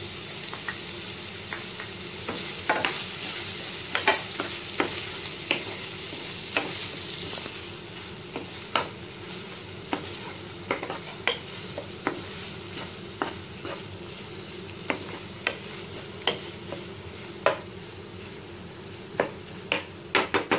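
Chopped onion, tomato and green chillies frying in oil in a non-stick pan: a steady sizzle, stronger for the first seven seconds or so after the tomatoes go in and then easing, while a spatula stirs and knocks against the pan with frequent sharp clicks.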